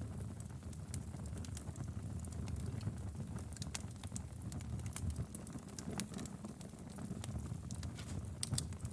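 Wood fire in a fireplace crackling, with many irregular sharp pops over a steady low rumble of burning.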